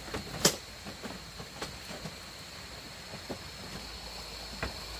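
A few scattered knocks and clicks, the loudest about half a second in, over a steady high-pitched hum.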